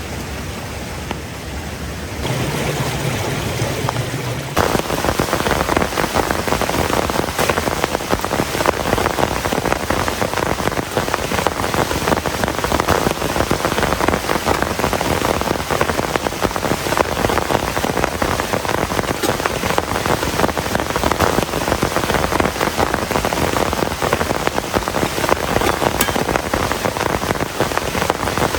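Heavy rain pouring down, a dense steady patter of close drop impacts. It gets louder in two sudden steps within the first five seconds, then holds steady.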